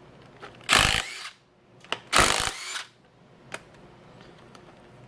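A handheld power tool runs in two short bursts, backing out tight bolts on the axle hub's cover plate. A light click follows after the second burst.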